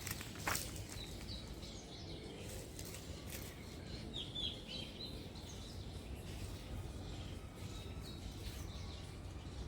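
Small birds chirping, a cluster of short calls about four seconds in, over steady outdoor background noise; a sharp click right at the start.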